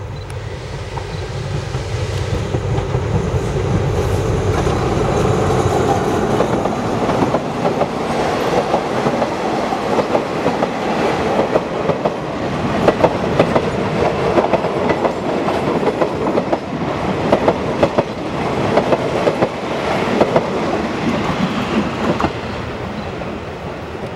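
Passenger train hauled by an Alsthom diesel-electric locomotive approaching and passing close by. At first the engine's low running grows louder. Then, as the coaches go past, the wheels knock in a steady rhythm over the rail joints, and the sound drops away near the end as the last coach passes.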